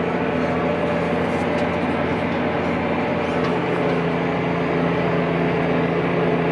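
Large farm tractor's diesel engine running steadily at constant revs.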